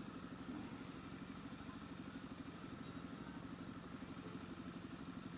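Motorcycle engine idling at a standstill, a steady, quick, even pulsing.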